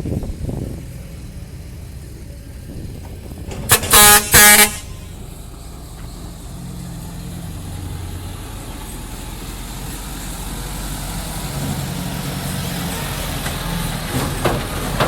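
Two short blasts of a truck-type horn in quick succession about four seconds in, over a heavy diesel engine running steadily that grows a little louder later on.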